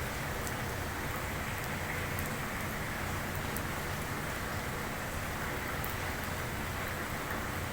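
Steady rushing hiss of abrasive sandblasting against a ship's steel hull, over a low machinery hum.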